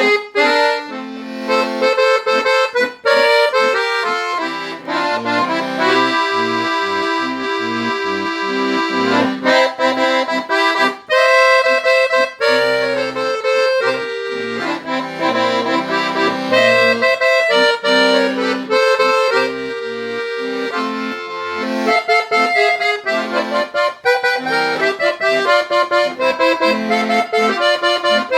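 Accordion (sanfona) playing an instrumental tune, a moving melody over chords and separate bass notes.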